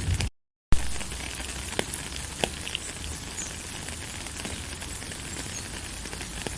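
Steady rain falling, with a few distinct drop clicks over the steady hiss. Near the start the sound cuts out to dead silence for under half a second, then resumes abruptly.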